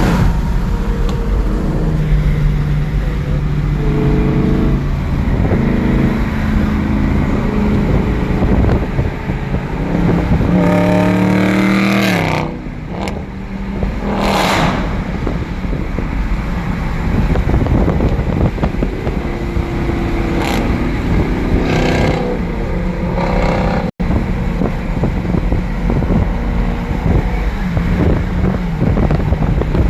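HEMI V8 Dodge Challengers and Chargers running at highway speed, their engine and exhaust note rising and falling repeatedly as they accelerate and ease off, with wind rush. The sound drops out for an instant about two-thirds of the way through.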